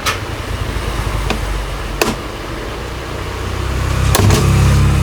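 Four sharp clicks and taps, a second or so apart, from tweezers prying at an LED TV panel's frame and clips. A steady low hum runs underneath and swells near the end.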